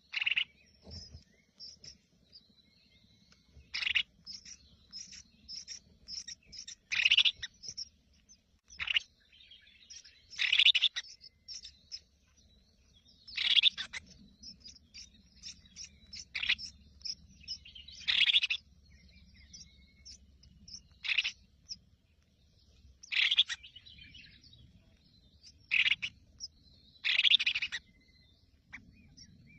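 Small birds chirping: a loud, sharp call repeated about every two to three seconds, with faster, fainter high chirps in between.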